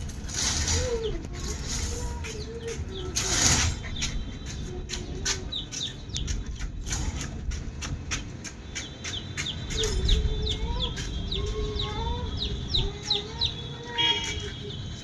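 Birds chirping: short, high, falling chirps repeated a few times a second, with scattered clicks and a thin wavering drawn-out tone twice.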